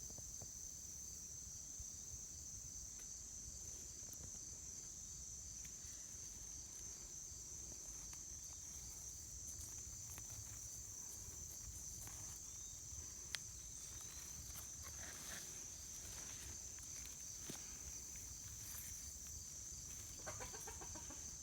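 Steady high-pitched chorus of crickets, with faint rustling and one sharp click about 13 seconds in.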